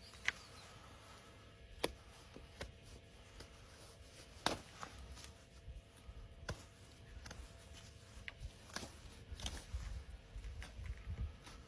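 Scattered sharp clicks and snips of hoof-trimming tools working on a horse's hoof, with a low rumble of movement swelling near the end.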